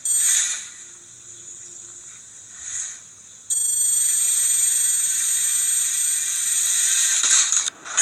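A steady hiss with a thin high whistle in it. It starts suddenly about three and a half seconds in and stops about four seconds later, with quieter hiss before it.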